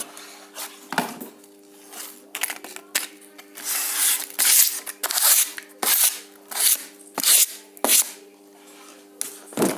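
Hand-tool work on the copper wire and clips: about a dozen short scraping strokes, irregularly spaced, over a steady low hum.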